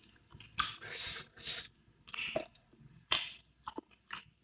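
A person chewing and eating close to the microphone, in about five short, wet, noisy bursts separated by brief pauses.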